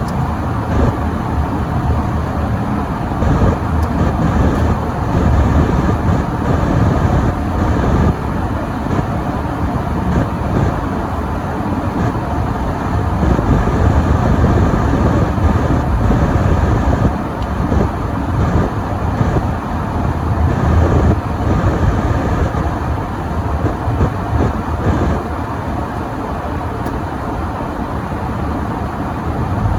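Car driving on a snowy road: a steady rumble of engine and tyre noise, louder in the low end and varying slightly in strength.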